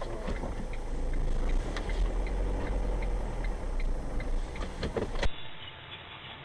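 Car driving, heard from inside the cabin: a low road and engine rumble with scattered clicks and a sharp knock about five seconds in. The sound then drops abruptly to a quieter, thinner ticking.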